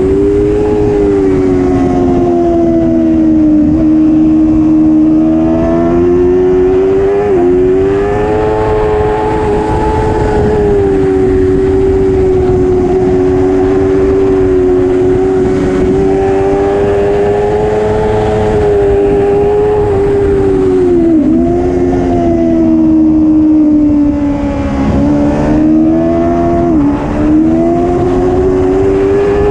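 Racing superbike engine running hard at high revs. Its pitch holds high and steady, with brief dips and quick recoveries about 7, 21, 25 and 27 seconds in, as at gear changes.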